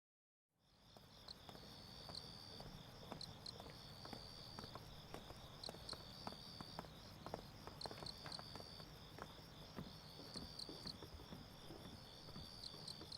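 Crickets chirping in repeated high trills against a faint steady background hiss, fading in after a moment of silence. Scattered faint clicks run through it.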